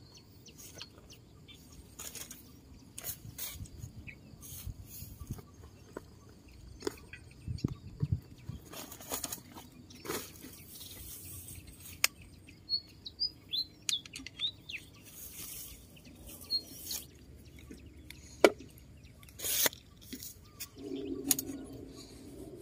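Scattered sharp clicks and knocks, with a few short high bird chirps about halfway through.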